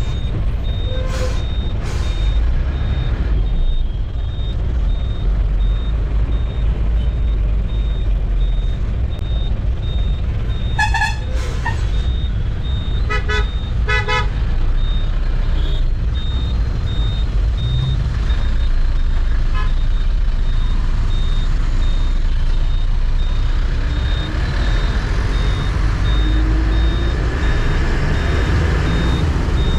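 Truck engine and road rumble heard from the cab, steady throughout, with vehicle horns honking: one honk about 11 seconds in, then quick short toots around 13 to 14 seconds. A faint high beep pulses evenly all the way through, and near the end the engine pitch rises as the truck accelerates.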